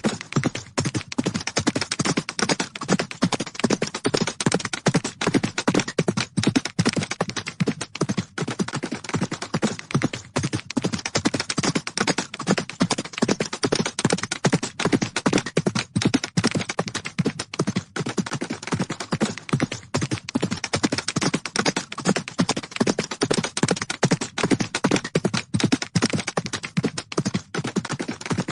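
Horses galloping: a fast, unbroken drumming of hoofbeats.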